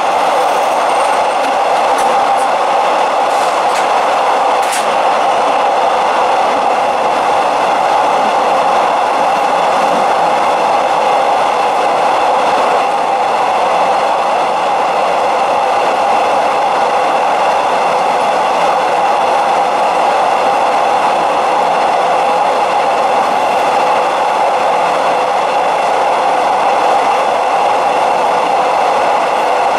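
Train running on rails: an even rush of rail noise with a strong mid-pitched hum that neither builds nor fades.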